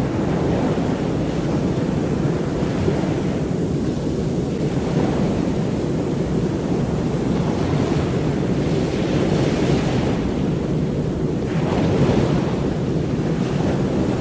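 Ocean surf washing steadily, with two waves swelling louder in the second half.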